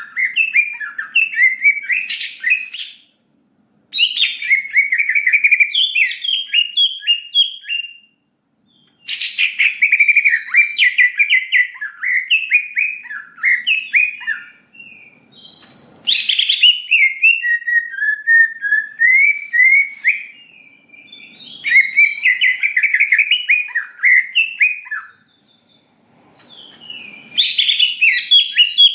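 Cucak ijo (green leafbird) singing in long phrases of rapid, varied chattering and whistled notes. The phrases last several seconds each and are broken by brief pauses, in the full, continuous 'gacor' song used to provoke other leafbirds.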